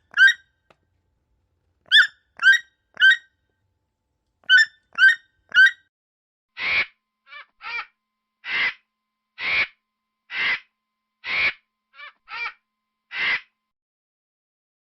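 Animal calls: first short pitched calls in groups of three, then a harsher call repeated about once a second.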